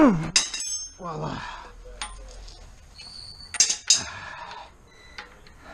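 Steel hand tools clinking and ringing: a breaker bar and socket on a front axle nut that has just broken loose. One sharp clink just after the start, then two more close together near four seconds in.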